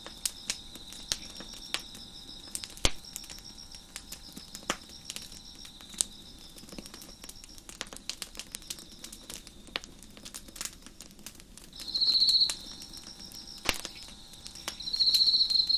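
Wood fire crackling with scattered sharp pops, over crickets chirping in a fast, high, pulsing rhythm. In the second half a nearer cricket trills loudly twice, in bursts of about half a second, the loudest sounds here.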